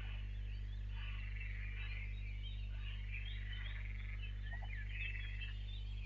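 Many small birds chirping and twittering in a dawn chorus, over a steady low hum.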